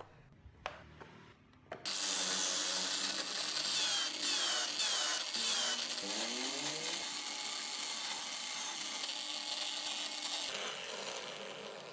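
Handheld power tool cutting into wood. It starts about two seconds in, its motor pitch dips and rises a few times in the middle, and it fades near the end.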